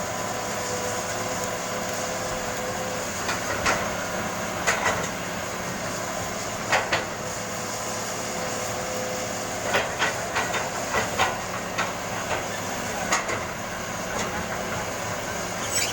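Caterpillar 320 hydraulic excavator's diesel engine running steadily, with a faint high whine that comes and goes. Sharp metallic clanks and knocks sound over it every second or two, bunched most closely about ten to eleven seconds in.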